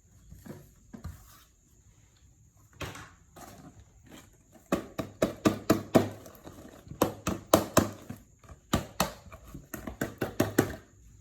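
A run of sharp knocks and taps, a few at first, then several a second from about halfway through, like something hard being struck or tapped on a hard surface.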